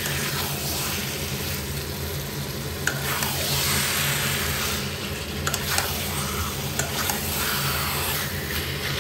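Chicken pieces in a thick masala paste sizzling in oil in a kadai while being stirred and turned with a spatula, with a few light clicks of the spatula against the pan.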